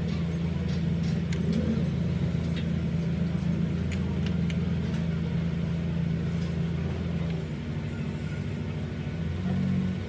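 A motor running steadily with a low hum, easing slightly about seven seconds in, with scattered light clicks over it.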